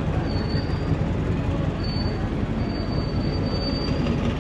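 Car engines running with a steady low rumble, with four short, thin, high-pitched squeals spread through.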